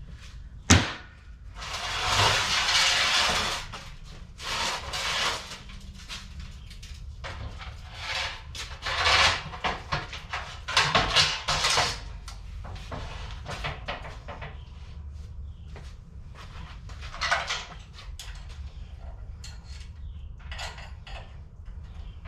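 Mini bike frame being turned over and set down, with irregular metal knocks and clatter. There is a sharp knock about a second in and a longer scraping noise from about two to four seconds in.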